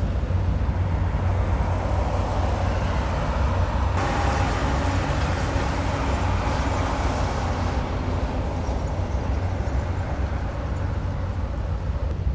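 A steady low engine rumble. About four seconds in, a hiss starts suddenly and fades away over the next several seconds.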